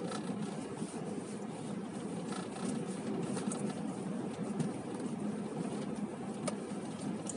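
Steady road and engine noise of a moving car, heard from inside the cabin, with a single sharp click about six and a half seconds in.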